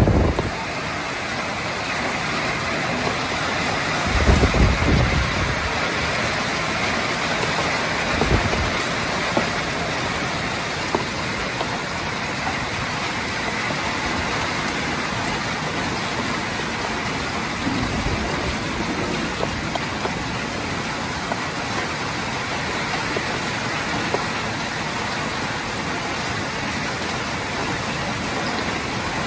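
Heavy rain pouring down in a steady, dense hiss, with a few short low rumbles of wind gusting against the microphone, the strongest about four seconds in.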